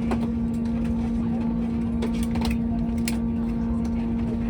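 Steady drone of jet airliner machinery on the apron: one constant low hum over a rumble, with a few short clicks and knocks.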